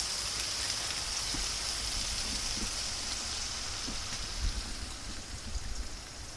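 Onions and garlic frying in hot oil in a pan, a steady sizzling hiss with a few small pops, a little fainter near the end.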